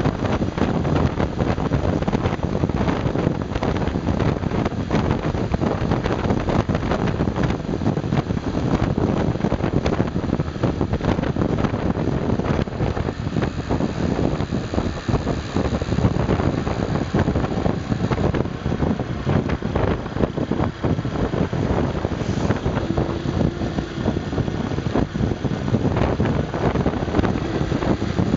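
Honda Super Cub 110's small air-cooled single-cylinder four-stroke engine running steadily under load while riding uphill, mixed with wind buffeting on the microphone.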